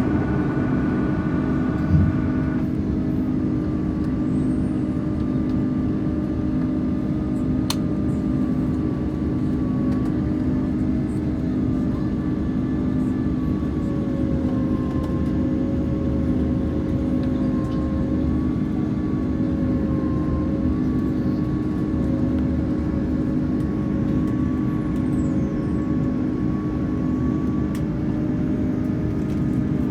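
Airbus A330-300 engine and airflow noise inside the passenger cabin: a steady drone with a faint, slowly wavering whine over it. A single short knock sounds about two seconds in.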